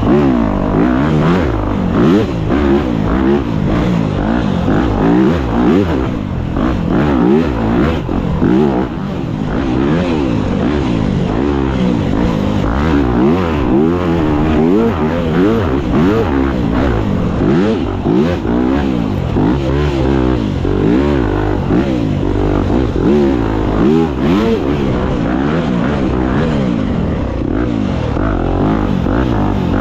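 Dirt bike engine ridden hard, revving up and down continually as the throttle is worked, its pitch rising and falling every second or so.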